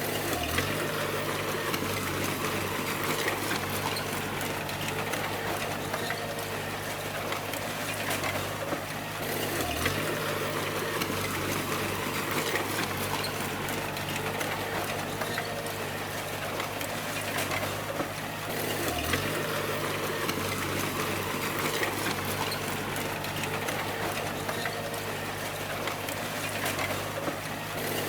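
Bulldozer's diesel engine running steadily under a constant mechanical clatter. Its pitch dips briefly and recovers four times, about every nine seconds.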